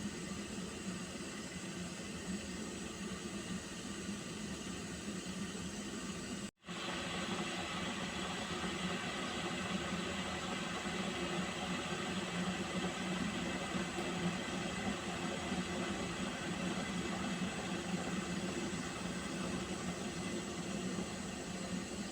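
Water heating in a pot, a steady hiss with a low hum. It cuts out for an instant about six and a half seconds in, then goes on a little louder.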